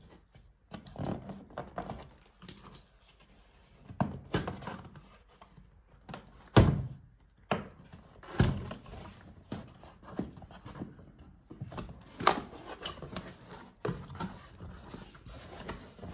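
Irregular knocks, clicks and thunks of hard objects being handled and set down, the sharpest knock about six and a half seconds in; no motor runs.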